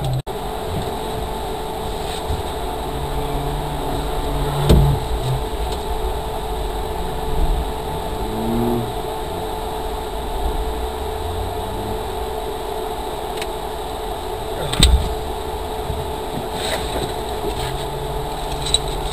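A car engine idling steadily, heard from inside the stationary rally car's cabin, with two sharp knocks, one about five seconds in and one near fifteen seconds.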